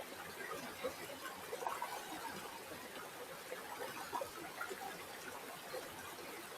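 River water flowing: a steady, faint trickling babble of many small splashes.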